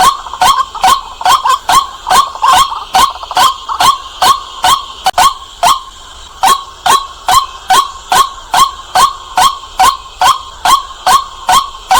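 White-breasted waterhen calling, a fast, even run of short, loud, clear notes, each rising in pitch, repeated about three times a second with a brief break about five seconds in.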